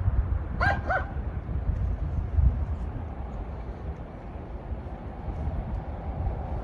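A dog barking twice in quick succession about half a second in, over a steady low rumble of road traffic.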